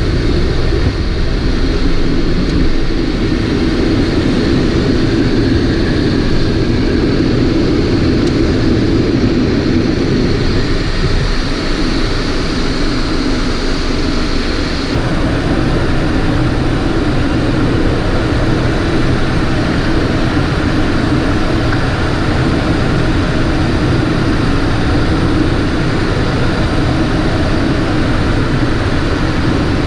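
Steady cockpit noise of a Cessna Citation XLS business jet in flight: engine and airflow noise. A faint high whine drops out about halfway through.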